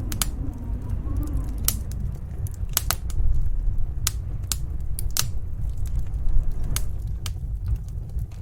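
Wood fire crackling, with sharp irregular pops over a steady low rumble of snowstorm wind. A faint wind howl that rises and falls in pitch fades out in the first second or two.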